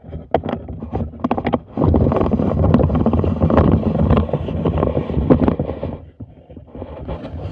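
Clicks and clatter, then a few seconds of loud rubbing and rumbling handling noise close to the microphone, stopping about six seconds in.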